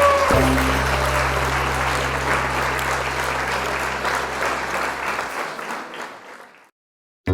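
Applause sound effect over a held low note at the close of a background music track, fading out to silence about a second before the end.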